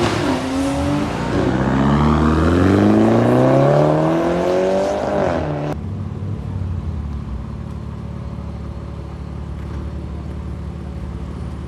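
Car engine under hard acceleration, its pitch climbing steadily for about five seconds. It cuts off abruptly and gives way to a steady low engine rumble at idle.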